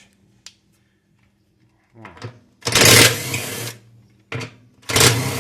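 Cordless screwdriver running in two short runs, backing out a 10 mm screw from a washing machine's wash basket. The first run comes about three seconds in and lasts about a second; the second starts near the end.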